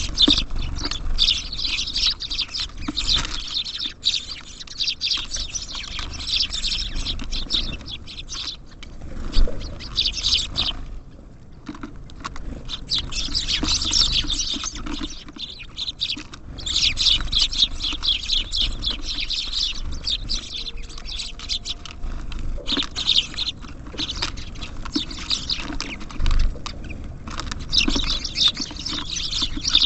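A flock of small songbirds at a feeder chattering and chirping almost without a break, in a dense, rapid twitter, with a short lull about eleven seconds in.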